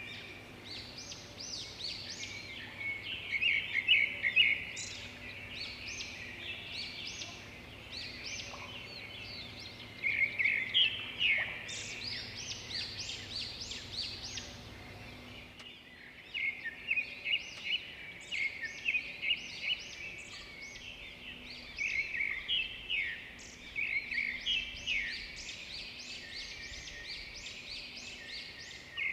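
Several birds singing, with quick high chirps and trills coming in bouts, some louder and closer than others. A faint low background hum cuts out about halfway through.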